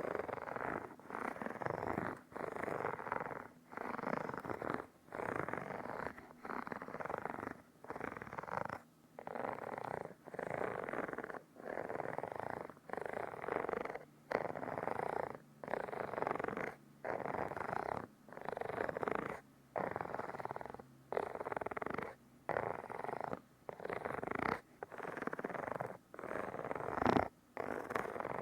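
Rhythmic close-up rubbing or squishing on a binaural microphone, roughly one stroke a second with short pauses between strokes.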